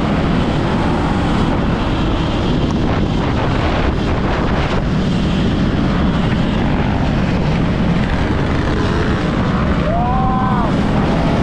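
Steady rush of wind and low rumble on the microphone while riding off-road. Near the end comes a short whine that rises and then falls.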